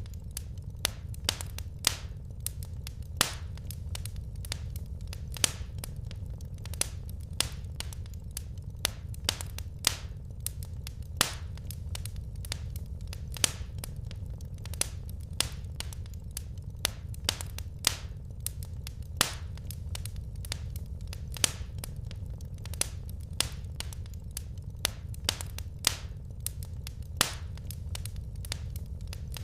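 Wood fire crackling in a fireplace: irregular sharp pops and snaps, a few each second, over a steady low rumble of the flames.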